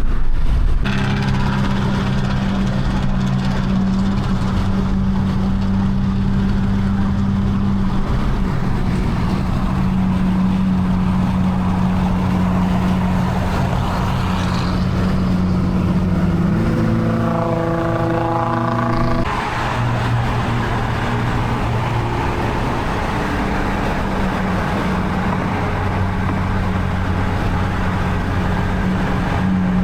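Car engine running at a steady speed, a continuous low drone. About halfway through, a higher, buzzier tone joins it for two or three seconds, then the drone settles back.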